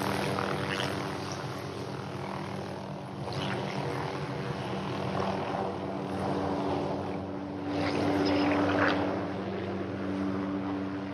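Cessna 172 Skyhawk's piston engine and propeller running steadily at low power, with brief rushes of noise about three and eight seconds in.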